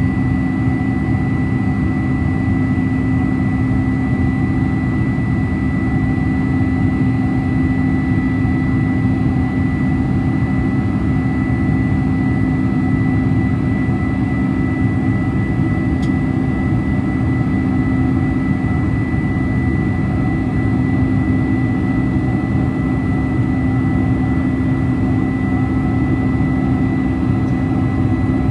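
Boeing 747-400 Combi heard from inside the passenger cabin: a steady jet-engine drone and rushing air, with a low hum and a thin high whine held unchanged throughout.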